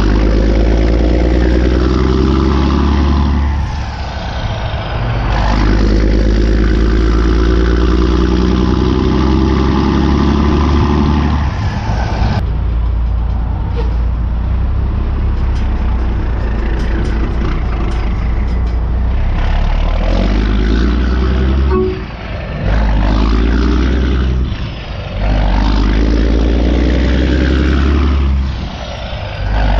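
Heavy vehicle engine running and revving up and down over and over, with short drops in level every few seconds and a thinner stretch in the middle.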